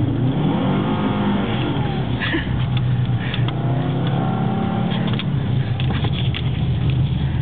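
Car engine revving up and back down twice while the car slides on snow, with scattered clicks and knocks.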